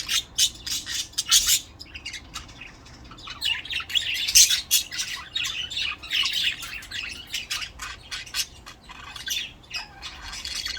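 Budgerigars chirping and warbling in quick, busy runs of short chirps, loudest about four seconds in.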